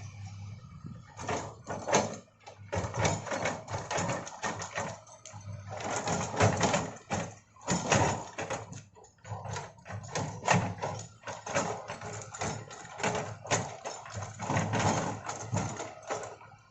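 Komatsu excavator at work: its diesel engine runs under dense, irregular clanking and knocking.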